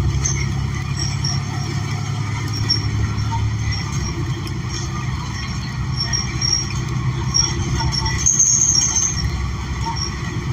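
Cabin sound of a New Flyer XN40 natural-gas city bus under way: its Cummins Westport L9N engine and Allison B400R transmission running with road noise and small rattles. The engine note eases about four seconds in, and a short high squeal comes near the end.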